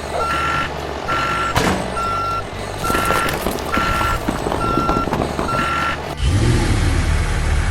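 Vehicle reversing alarm beeping steadily, about seven single-tone beeps a little more than a second apart, over a low engine rumble, with a sharp knock about one and a half seconds in. The beeping stops about six seconds in, and a louder, steady low rumble takes over.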